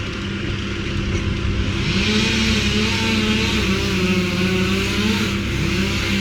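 Petrol engine of tree-cutting machinery running steadily. About two seconds in its pitch rises and a hiss grows over it, and the pitch dips briefly near the end.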